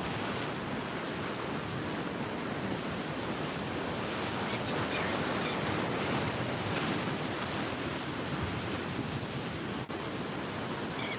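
Ocean surf washing in steadily, with wind on the microphone.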